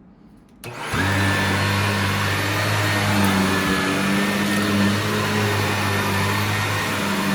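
Shark vacuum cleaner switched on under a second in, its motor spinning up quickly and then running steadily with a hum and a high whine.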